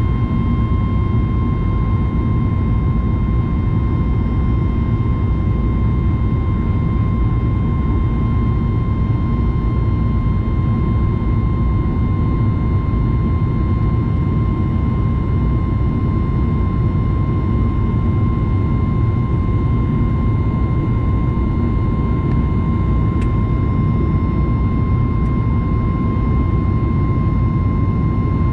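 Steady cabin noise aboard a Boeing 737 MAX 9 in flight: a constant rumble of CFM LEAP-1B jet engines and airflow, with a steady high whine over it.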